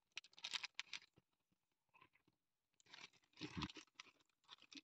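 Faint, intermittent chewing and crinkling of a paper burger wrapper as a bacon burger is handled and eaten, in two short spells about half a second in and around three and a half seconds in.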